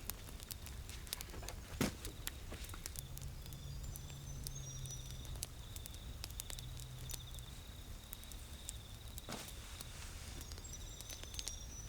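Quiet outdoor ambience: a steady, high-pitched insect drone with scattered small clicks and crackles, and a few faint high chirps.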